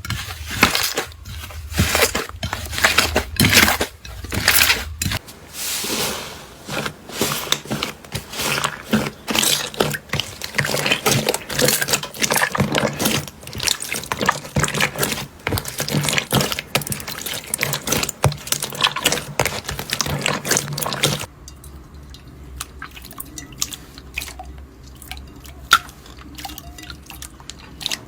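Slime being squeezed and worked by hand, making a dense run of wet, sticky clicks and pops that thins to occasional quieter clicks near the end.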